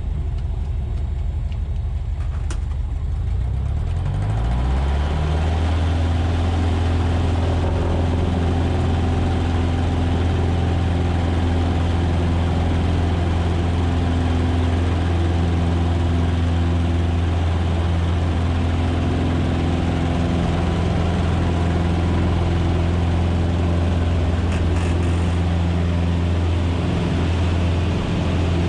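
Cessna 150's four-cylinder Continental O-200 engine and propeller speeding up as the throttle is opened. The pitch rises over the first few seconds, then holds steady at high power.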